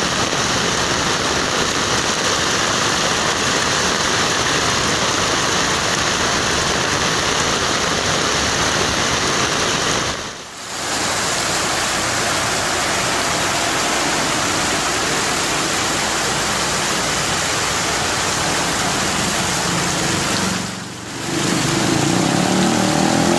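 Steady, loud hiss of heavy rain and water on flooded streets, broken twice by brief dips. Near the end a vehicle engine hum joins in.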